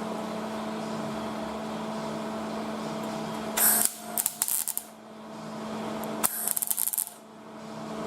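Two short bursts of MIG welding crackle, each under about a second and a half, over a steady electrical hum. The welding is erratic ('not cooperating'), which is put down to a dirty welding tip.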